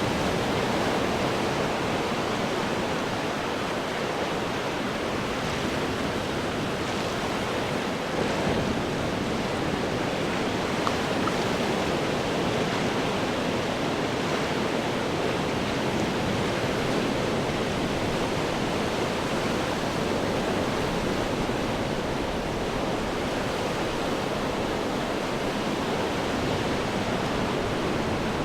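Ocean surf breaking on rocks: a dense, steady wash of churning water with only slight swells in loudness.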